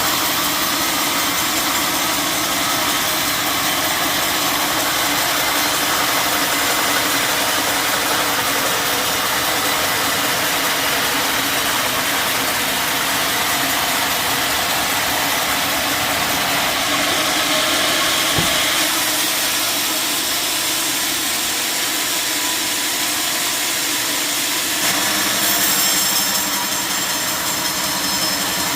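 Sawmill machinery running steadily, its sound shifting briefly about halfway through and again near the end.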